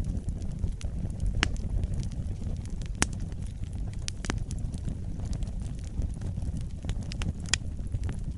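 Wood fire burning in a fireplace: a steady low rumble with irregular sharp crackles and pops, the loudest pop about three seconds in and a few quick ones near the end.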